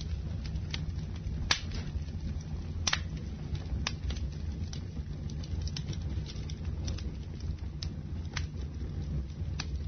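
Campfire burning: a steady low rumble with irregular sharp crackles and pops from the burning wood, the loudest snaps about a second and a half and three seconds in.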